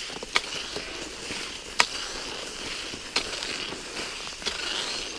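Cross-country skis gliding on a freshly groomed track in hard frost, a steady hiss, with the sharp click of ski poles planting into the cold snow about every second and a half.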